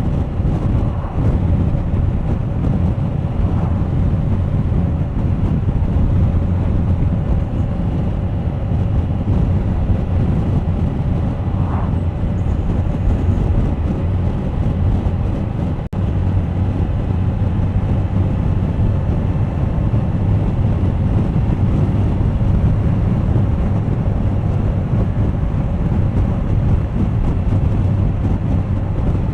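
Suzuki GSX1250FA's inline-four engine running at a steady cruise, mixed with road and wind noise buffeting the camera microphone. Its level dips very briefly about halfway through.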